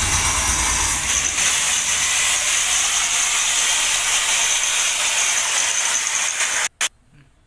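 Cutting machine's abrasive disc grinding through a seized, rusted drum bearing on a washing machine's spider shaft, a bearing too stuck to pull off. A steady, loud hissing grind that cuts off suddenly near the end, followed by one brief blip.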